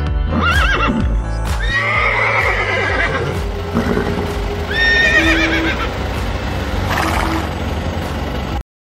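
Horse whinnying three times, each call quivering up and down in pitch: about half a second in, around two seconds in, and about five seconds in, over background music. The sound cuts off suddenly near the end.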